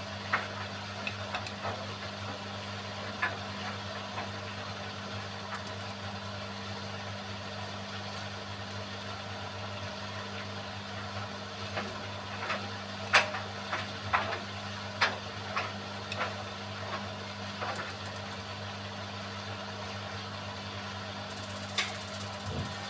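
Beko WMY81283LMB2 washing machine running with a steady motor hum. Irregular sharp clicks and knocks come and go over it, most of them about 12 to 16 seconds in.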